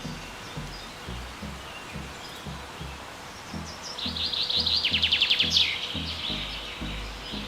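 A bird sings a loud, rapid, high trill lasting about two seconds, starting about four seconds in, with fainter chirps scattered around it. Background music with a steady beat runs underneath.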